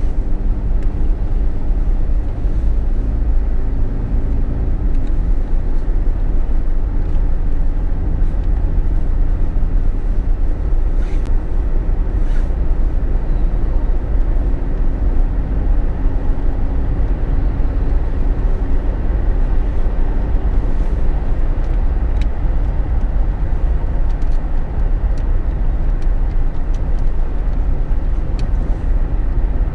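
Jeep Wrangler JK driving on the road, heard from inside the cabin: a loud, steady low rumble of tyres and wind, with an engine hum that comes and goes.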